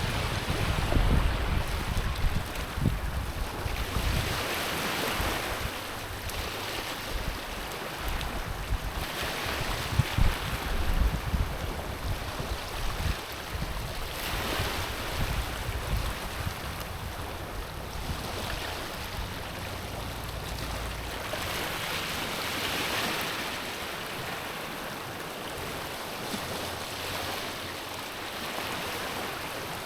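Small ocean waves lapping on a stony shore, each washing in and drawing back, a swell about every four to five seconds. Wind buffets the microphone with low rumbles in the first half.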